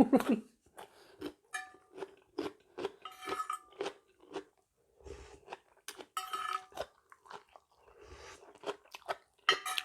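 A person chewing a spicy mixed seafood salad close to the microphone, with irregular wet crunches and mouth smacks, several a second, pausing briefly now and then.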